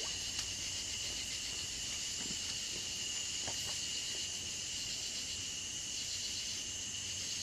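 Chorus of singing insects: a steady high-pitched trill with a faster pulsing hiss above it. A single light click about half a second in.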